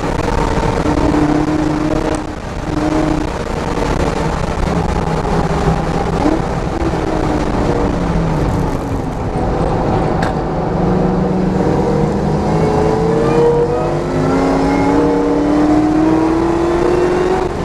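A track car's engine heard from the onboard camera under hard driving. The revs rise and fall through the corners, drop off as it slows about eight seconds in, then climb in one long pull near the end before a gear change.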